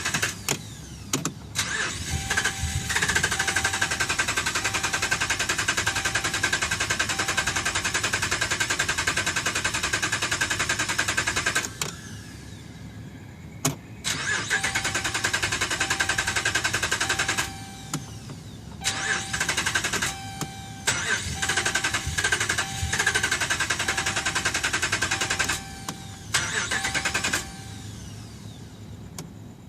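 Starter cranking the 2011 Ram 1500's engine in several long bursts with pauses between them, and the engine never catches. This is a crank-no-start, which turned out to be caused by a defective TIPM (Totally Integrated Power Module). A short beep repeats steadily during the cranking.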